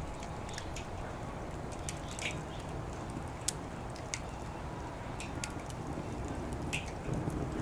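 Wood fire crackling, with sharp irregular pops, the clearest about halfway through, over a low steady rumble.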